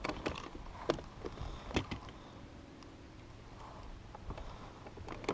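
A few sharp knocks about a second apart, gear handled against a kayak, then a faint steady hum.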